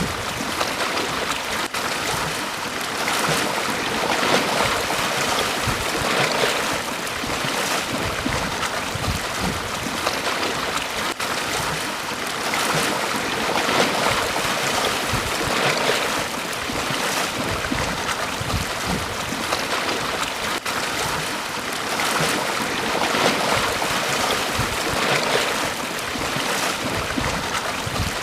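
Small ocean waves breaking and washing up on a beach, a steady wash of surf that swells every few seconds as each wave comes in.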